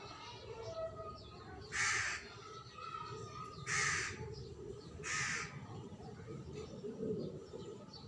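A bird calling three times with loud, harsh, cawing calls about half a second each, roughly two seconds in, at four seconds and just after five seconds, over faint chirping in the background.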